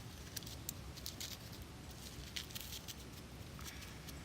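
Light crackling and clicking of dry stored flower bulbs and their papery skins being handled, over a steady low rumble of wind on the microphone.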